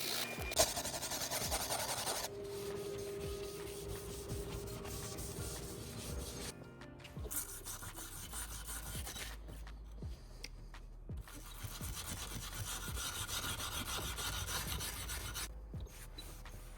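A brush scrubbing solvent-wet walnut, bristles rubbing back and forth over the grain to work leftover paint out of the pores, with a few short breaks.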